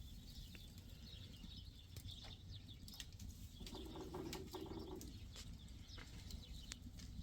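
Faint calls of birds, with scattered light clicks and a short low cooing-like sound about four seconds in.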